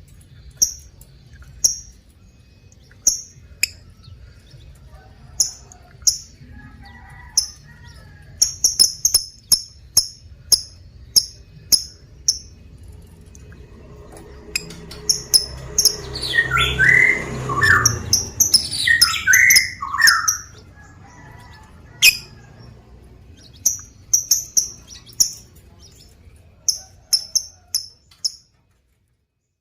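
Lovebird chirping: short, sharp, high chirps repeated every second or so, often in quick runs. In the middle comes a louder stretch of several falling calls. The sound drops out briefly near the end.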